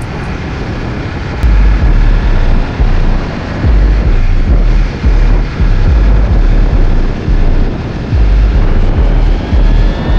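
Wind buffeting a helmet-mounted microphone on a moving motorcycle, in irregular low gusts that get stronger about a second and a half in, over a steady rush of engine and road noise.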